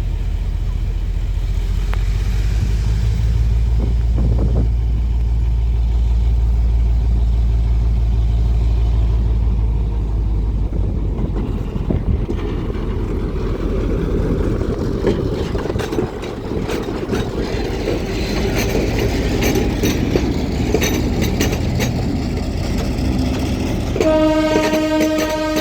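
EMD G12 diesel-electric locomotive running with a deep steady rumble as it moves a passenger train, easing off after about ten seconds. Then the wheels click and squeal on the rails, and the locomotive's horn sounds one steady chord a second or two before the end.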